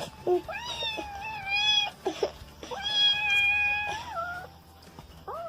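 A cat meowing in two long, drawn-out calls, with a third starting at the end.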